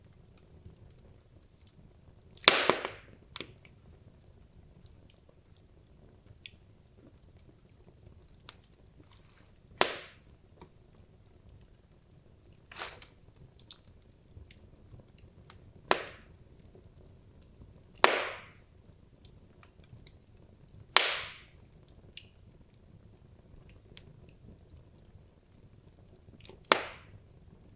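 Wood logs burning in a fireplace, crackling: about seven loud sharp pops a few seconds apart, with fainter ticks between them, over a low steady hiss of the fire.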